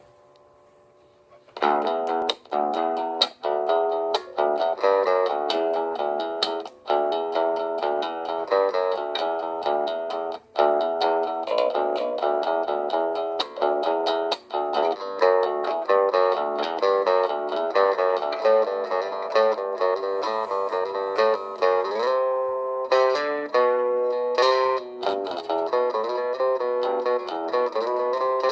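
A plucked string instrument playing a quick, continuous run of notes, starting about a second and a half in.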